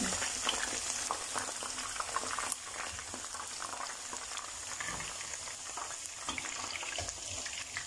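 Cornflour-coated chicken strips sizzling in hot oil as they deep-fry, a steady dense crackle of small pops; the strips are light brown and crispy, nearly done.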